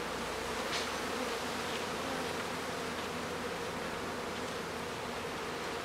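A mass of honeybees buzzing in a steady hum as the colony's frames are worked.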